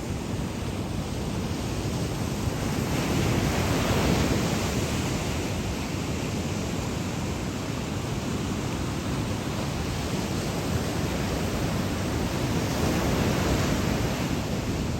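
Ocean surf breaking and washing ashore in a steady roar, with wind rumbling on the microphone. It swells to a louder wash about four seconds in and again near the end.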